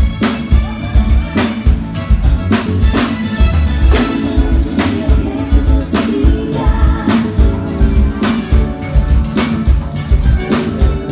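Live band playing over a PA with drum kit, bass and a singing voice, the drums keeping a steady beat with regular snare and cymbal hits.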